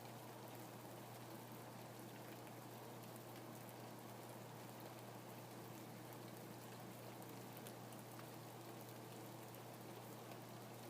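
Steady rain: a soft, even hiss with scattered drops ticking, over a constant low hum.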